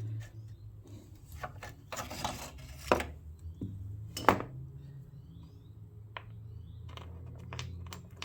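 Hand work on a Honda GX110 engine while its switch is fitted: scattered sharp clicks and knocks of small parts and tools, with a short scraping about two seconds in and the loudest knocks about three and four seconds in, over a low steady hum.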